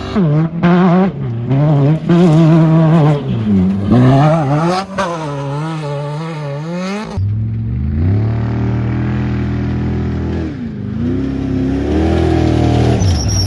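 Off-road race vehicle engine at high revs, the throttle repeatedly opening and lifting so the note climbs and drops. At about seven seconds it changes abruptly to a lower, steadier engine note that rises again near the end.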